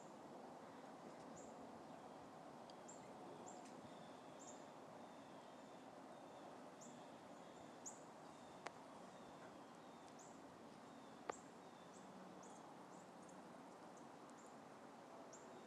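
Faint, high, short bird chirps repeated at irregular intervals over quiet outdoor hiss, with two sharp clicks in the middle.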